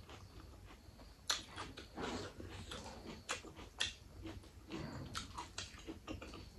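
Close-up eating sounds of a person chewing a mouthful of rice and mutton gravy: wet mouth smacks and sharp clicks at irregular intervals, from about a second in.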